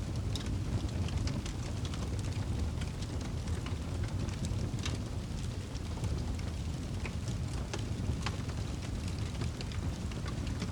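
Fire crackling: a steady low rumble with small sharp pops and snaps at irregular intervals.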